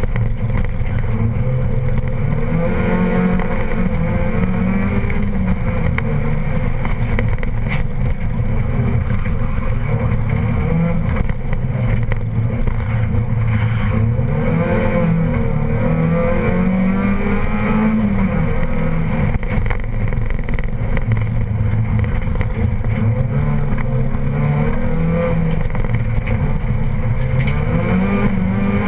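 Competition car's engine heard from inside the cabin at full effort, its pitch climbing and dropping over and over as the driver accelerates, shifts and brakes between corners.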